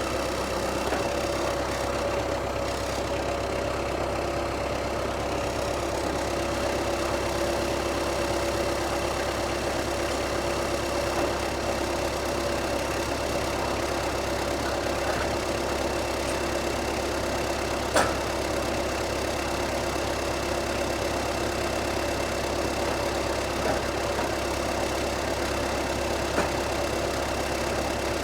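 Diesel engine of a piece of heavy equipment running steadily at idle, with a steady whine over it. A single sharp click sounds about eighteen seconds in.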